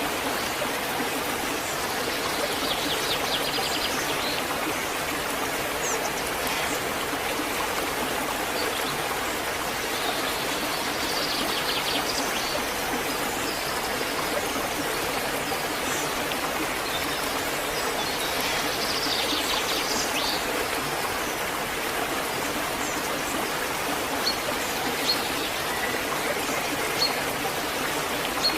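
Waterfall water rushing and splashing steadily, with a few brief high chirps now and then.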